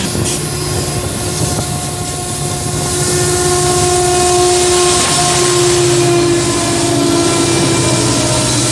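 A freight train passing close by: tank cars and an autorack rolling over the rails, then the Union Pacific diesel locomotives at the rear go by with a steady engine whine that drops slightly in pitch as they pass.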